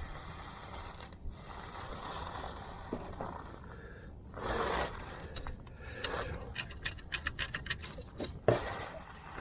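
Hands-on mechanical work with tools and parts: scraping and rustling, a quick run of sharp clicks about two-thirds of the way through, then one loud sharp knock.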